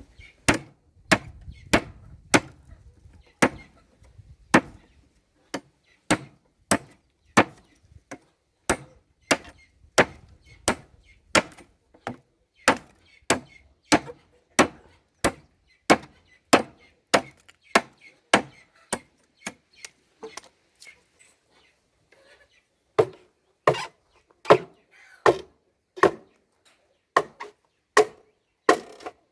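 A blade chopping in steady repeated strokes, a little under two a second. The strokes falter and pause briefly about two-thirds of the way through, then resume sounding duller and heavier.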